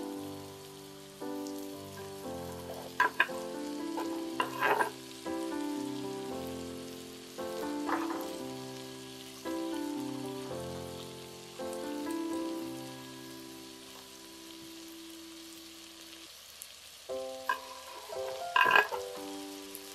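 Vegetables and chicken sizzling in a pot, with a few sharp clacks of a wooden spatula as they are stirred, over soft background music of held notes that change about once a second. Near the end, a knife scrapes chopped celery off a wooden board into the pot, making a short burst of clatter.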